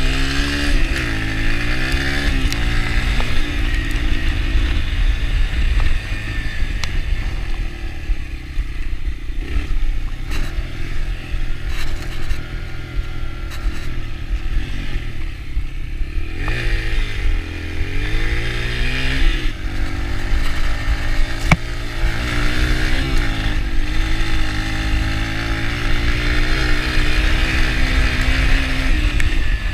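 Yamaha TT-R125 dirt bike's single-cylinder four-stroke engine running as it is ridden, its revs rising and falling several times as the throttle is worked, over a steady low rumble.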